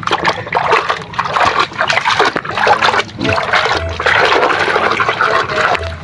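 Water splashing and running steadily as a muddy toy is washed.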